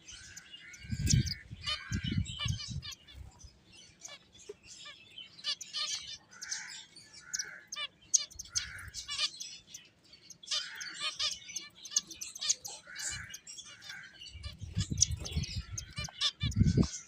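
Pet finches chirping and calling in quick, overlapping short notes. Low dull thuds come in twice, about a second in and again near the end.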